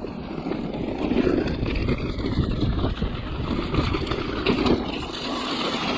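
Wind on the microphone mixed with the rattle and tyre noise of a mountain bike riding over a wet, rough trail, with scattered clicks and knocks.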